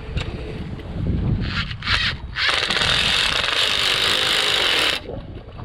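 A power drill runs in a couple of short bursts, then steadily for about two and a half seconds before stopping abruptly.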